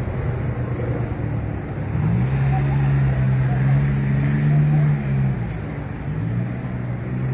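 Motor vehicle engine running in street traffic, a low steady hum that rises in pitch and gets louder about two seconds in, then drops back a little after halfway.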